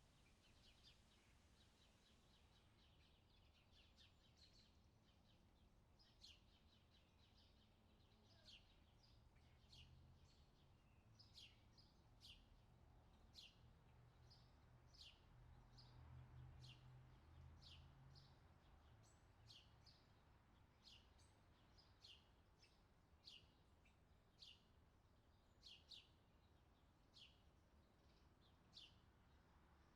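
Faint bird chirps, short high notes repeated about once a second, over a low, soft rumble.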